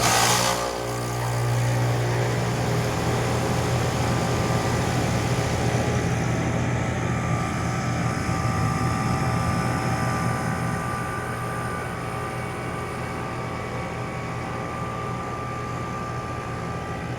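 Rheem 3-ton central air conditioner's outdoor unit starting up for the season: the Copeland scroll compressor and condenser fan switch on suddenly, then run with a steady low hum and fan rush.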